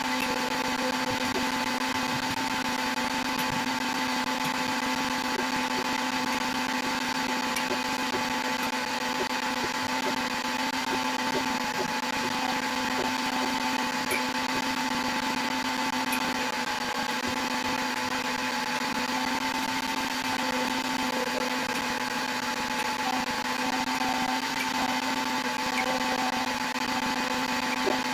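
Steady machine hum from a running electric motor, holding one pitch with a whirring noise underneath.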